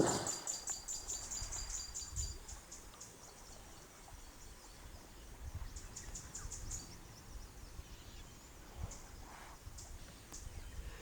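Bushveld ambience of insects chirping in fast, even pulses at a high pitch, fading in and out, with a faint low rumble underneath. A brief low sound right at the start is the loudest moment.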